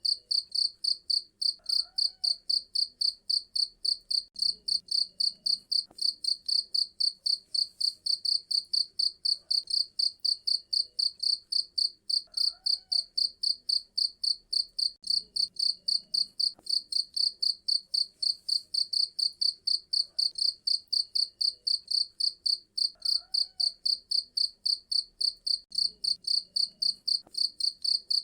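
Cricket chirping shrilly in a steady, unbroken train of rapid, evenly spaced pulses.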